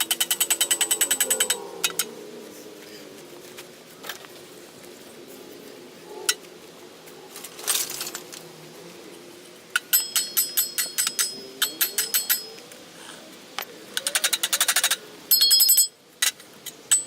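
Several bursts of rapid metallic clicking, about fifteen clicks a second, from a ratcheting tool working the screws of a bench grinder's housing. There are quieter pauses between the bursts.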